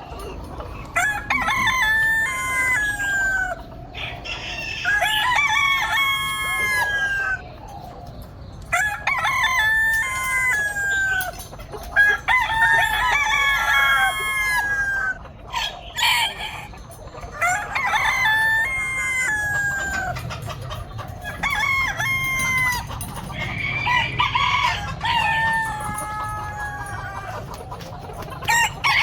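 Roosters crowing over and over, each crow one to three seconds long and dropping in pitch at the end, with some crows overlapping one another.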